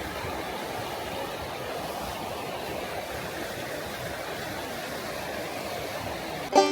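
Steady rush of running water, even and unbroken, between two music tracks.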